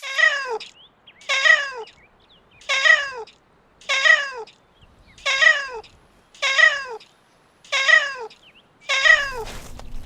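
Domestic cat meowing eight times at an even pace, each meow a short call that falls in pitch. The meows look identical, as if one recording is repeated.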